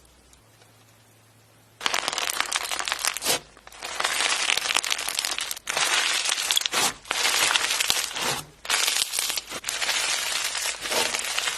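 Dense crinkling, crackling noise, as of something being crushed or crumpled by hand, starting about two seconds in and running in long stretches broken by short pauses.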